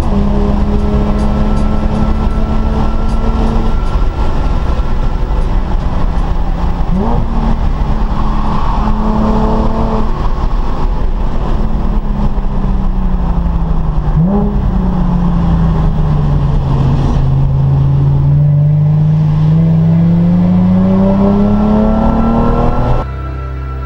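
Nissan 370Z's 3.7-litre V6 engine heard on board while lapping a circuit. The pitch holds, then jumps sharply twice about seven and fourteen seconds in, sags into a long low dip as the car slows, and climbs steadily under acceleration before the sound cuts off suddenly near the end.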